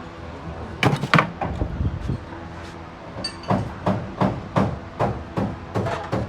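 Hammer blows: two hard strikes about a second in, then from about halfway a steady run of strikes at about three a second.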